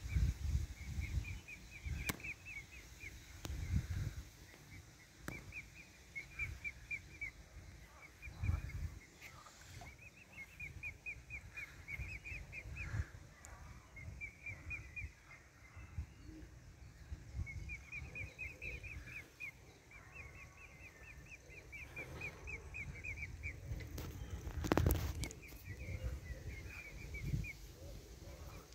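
Birds chirping in quick runs of high, short notes, a second or two at a time, over and over. Low rumbles come and go, with a brief knock about three-quarters of the way through.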